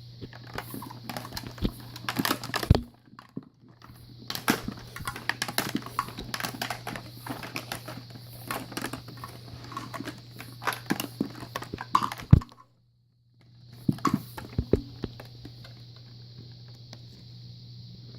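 Irregular clicks, taps and knocks of objects being handled, over a steady low hum. The sound cuts out completely for under a second about two-thirds of the way through, and is steadier and quieter near the end.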